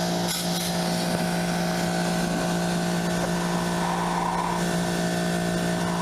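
A motor running at a constant high-pitched hum, with no change in speed.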